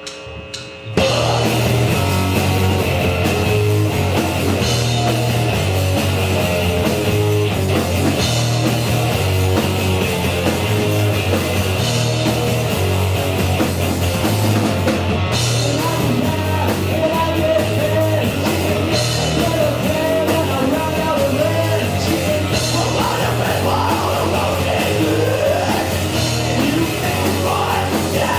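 Live punk rock band playing a song at full volume, the band kicking in together about a second in, with singing joining in the second half.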